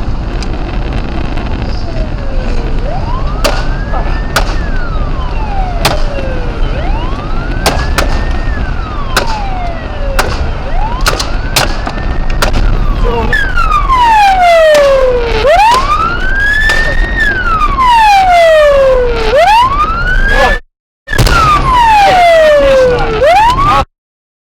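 Police car siren on a slow wail: each cycle rises quickly and falls over about two seconds, repeating about every four seconds. It is faint at first and grows much louder about halfway through. Sharp cracks come every second or so in the first half, and the sound cuts out twice briefly near the end.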